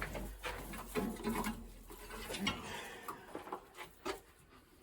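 Irregular soft taps, scuffles and feather rustles of young racing pigeons being handled and moved about, tapering off near the end.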